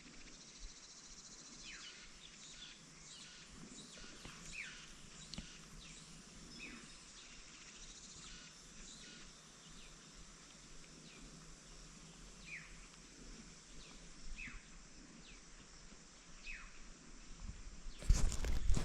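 Birds calling outdoors in short falling chirps every second or two, over a steady high-pitched insect drone. A loud burst of rustling noise comes near the end.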